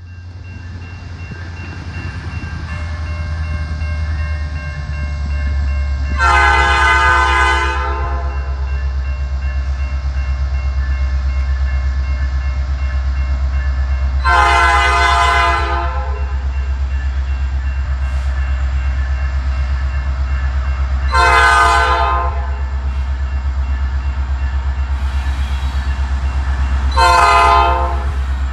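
Diesel freight locomotives, EMD SD70s, with a steady low engine rumble as the lead unit's multi-chime air horn sounds four times: two long blasts, then two shorter ones.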